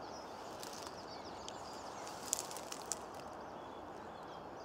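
Small birds chirping and singing over a steady outdoor background hiss, with a couple of sharp clicks about two and a half seconds in.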